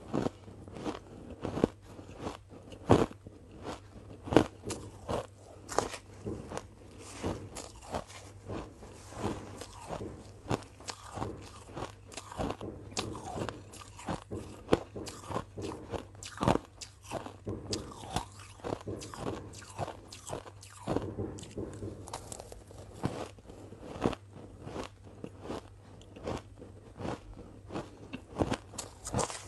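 Ice being bitten and chewed close to the microphone: a rapid, irregular series of sharp crunches, several a second. A faint steady hum runs underneath.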